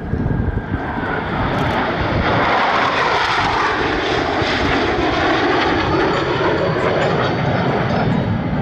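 Jet noise from Blue Angels F/A-18 Super Hornets flying an opposing minimum radius turn. It swells over the first second or two, then holds as a loud, steady, rushing roar.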